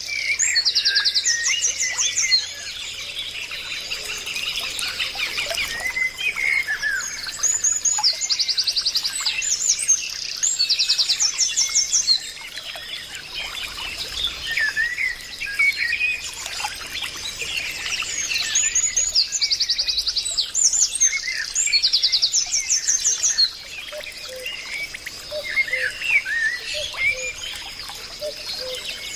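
Several birds singing and calling together. One bird repeatedly gives a fast trill of high notes lasting a second or more, about five times, over scattered shorter chirps and a steady high tone.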